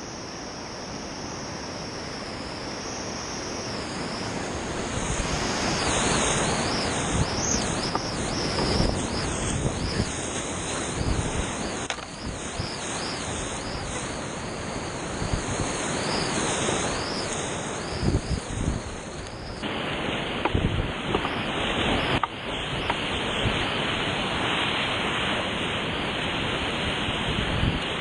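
Rushing whitewater of a creek rapid, swelling louder over the first several seconds and then holding, with a few sharp knocks and splashes.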